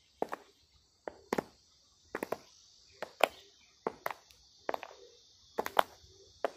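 An irregular series of sharp clicks, often two or three in quick succession, about one to two groups a second, over a steady high hiss.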